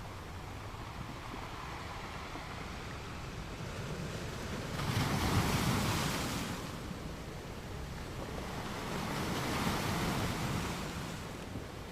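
Ocean surf: waves breaking in two surges of rushing water, the louder one a little before the middle and a softer one near the end.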